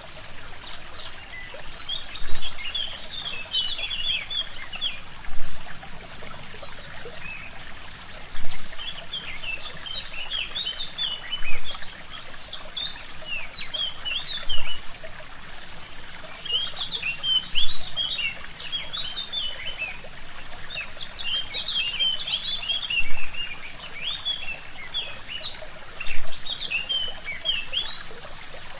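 A forest stream trickling steadily, with small birds chirping in quick clusters of short high notes over it. The water sound surges briefly louder about every three seconds.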